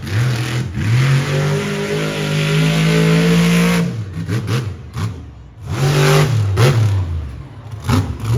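Monster truck engine revving hard: it climbs and holds high for a few seconds, drops off, then revs up again and falls, with a short blip near the end.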